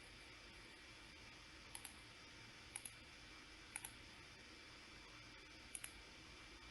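Computer mouse clicking over a faint steady hiss: four quick double clicks, the first three about a second apart.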